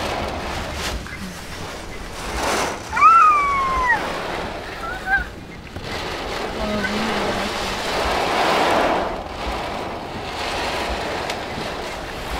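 Storm wind and heavy rain lashing a car, a steady rush that swells and eases in gusts. About three seconds in, a short high cry rises and falls over it.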